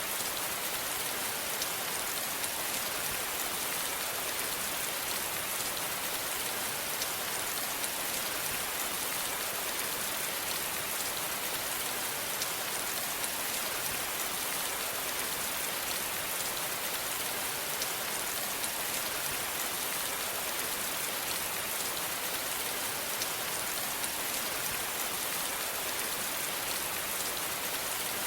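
Steady rain falling, an even hiss of many drops with fine individual patters, without letting up.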